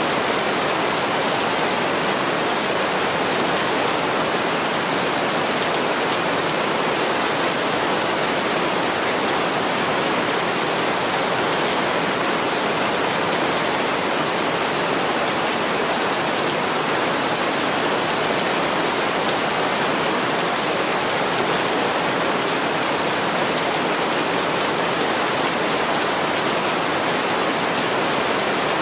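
Heavy rain falling steadily on window glass, an even, unbroken hiss of drops.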